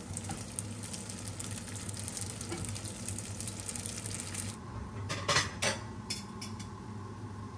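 Rice-cake sticks sizzling and crackling in hot oil in a frying pan as chopsticks turn them. The sizzling cuts off after about four and a half seconds, followed by a few sharp clinks of ceramic plates being handled.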